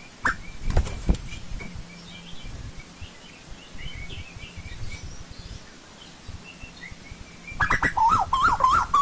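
Asian koel calling: a fast run of loud, short rising notes near the end, after a quieter stretch with faint small-bird chirps and a few knocks in the first second or so.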